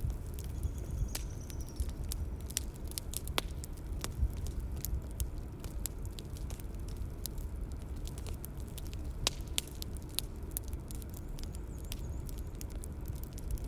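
Bonfire crackling: frequent irregular snaps and pops of burning wood over a steady low rumble of the fire.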